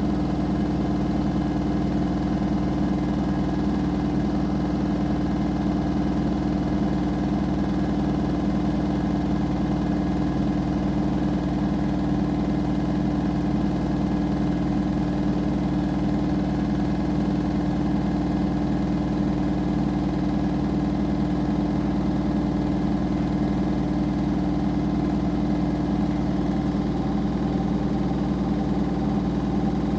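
Front-loading washing machine running with a steady, unchanging motor hum.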